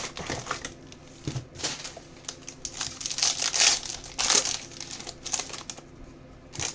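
Plastic wrapping crinkling and tearing as a sealed trading-card box is unwrapped and its pack opened, in irregular rustling bursts that are loudest midway.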